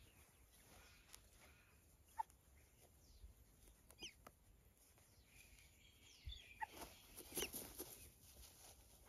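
A few faint, short bird chirps over near-quiet: a sharp single one about two seconds in, a couple of gliding ones around four seconds, and a small cluster near seven seconds.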